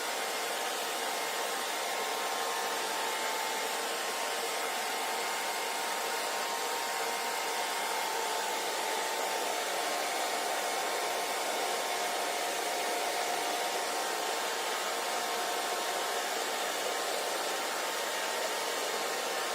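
Hair dryer running steadily: an even blowing hiss with a faint motor whine.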